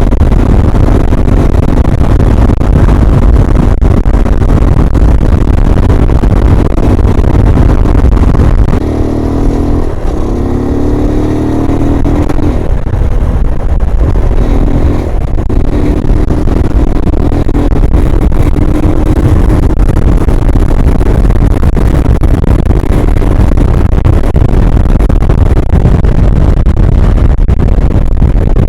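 MGB ATX125 motorcycle's 125cc engine running while being ridden, under heavy wind rush on the microphone. Between about 9 and 16 seconds in, the engine note climbs several times, each climb broken by a short dip.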